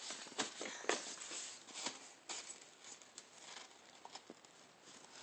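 A toothless baby gumming and sucking on a whole strawberry: irregular small wet clicks and smacks, a few sharper ones in the first second or so.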